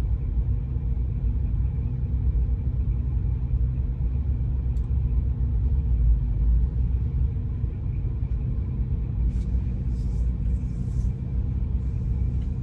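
Car engine idling steadily, a low even sound that holds the same pitch throughout.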